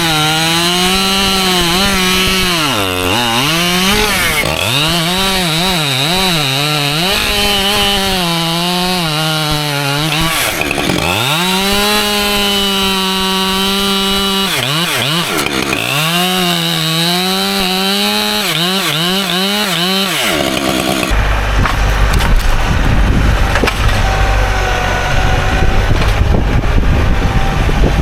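Husqvarna two-stroke chainsaw at full throttle cutting through white oak, its pitch sagging and recovering again and again as the chain bogs down under load in the cut. About three quarters of the way in the saw sound stops and a low rumble takes over.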